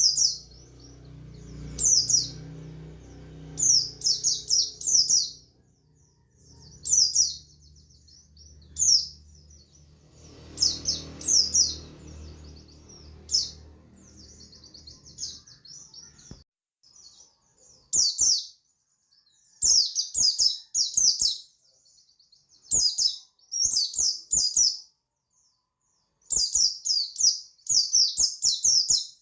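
A pleci buxtoni white-eye singing its wild-style 'ngalas' song: repeated bursts of fast, high twittering notes with short gaps between. A low background rumble runs under the song and stops about halfway through.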